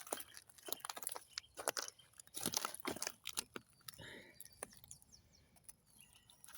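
Irregular dry crunching and crackling of brittle plant material being crushed, dense at first and thinning out toward the end.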